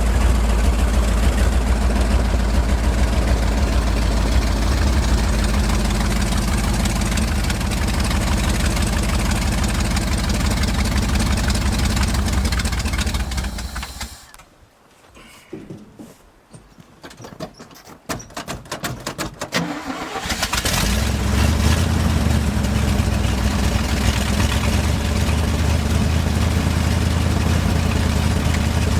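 1971 International 1890 truck's carbureted gasoline engine, freshly revived with a rebuilt carburettor, running steadily, then dying about thirteen seconds in. It is cranked for a few seconds and catches again about twenty seconds in, then settles back into a steady run.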